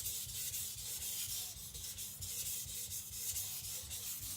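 Tojiro Shirogami nakiri blade being stroked back and forth on a wet Naniwa Professional whetstone, a gritty scraping hiss in quick, even strokes.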